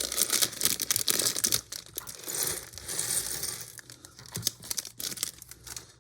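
Plastic Lego parts bags crinkling and tearing open, with small plastic bricks clicking and clattering as they spill out. Busiest in the first two seconds, then thinning to scattered clicks.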